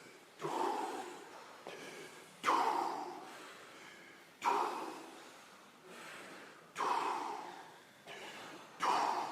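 Deep, forceful rhythmic breathing in Wim Hof Method power-breathing rounds: five loud breaths about two seconds apart, each starting suddenly and fading out, with softer breaths between them.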